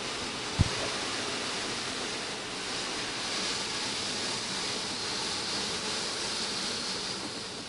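Steady hiss of spray from a Belanger Vector automatic car wash striking the car, swelling a little midway. A single brief thump about half a second in.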